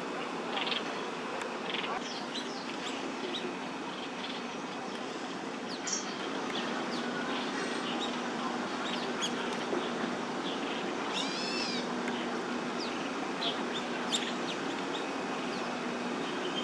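Outdoor park ambience with small birds chirping in short scattered calls, a quick run of chirps near the middle-to-late part, over a steady low hum that sets in about six seconds in.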